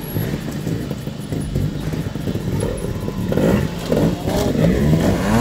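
Trials motorcycle engine running at low revs, then revved in repeated blips that rise and fall in pitch from about three seconds in.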